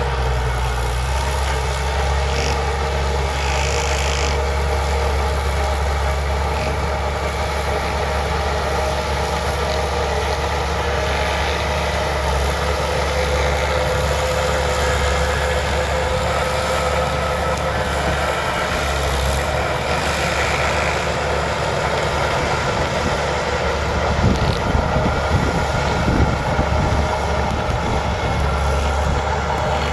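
Bulldozer's diesel engine running steadily, a continuous low rumble with a steady drone, turning a little rougher for a few seconds near the end.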